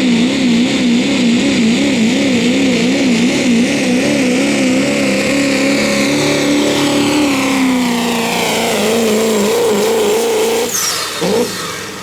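Turbo-diesel pickup truck pulling a sled at full throttle, its engine note wobbling rapidly in pitch with a high turbo whistle above it, both slowly falling in pitch. Near the end the engine is abruptly backed off and the sound drops away.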